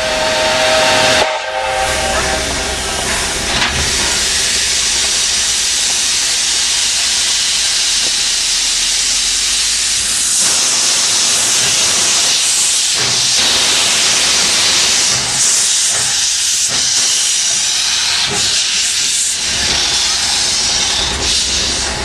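Soviet L-class steam locomotive L-0022: a short whistle blast at the start cuts off about a second in, then steam vents in a loud, steady hiss.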